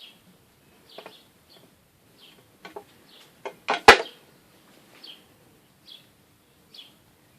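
Short bird chirps about once a second, with one loud, brief noisy burst a little under four seconds in.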